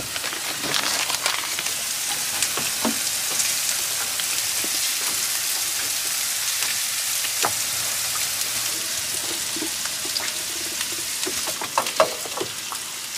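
Chopped onion, green chilli and leek sizzling in oil in a frying pan on a gas burner. A slotted metal spoon stirs them near the end, clicking and scraping against the pan.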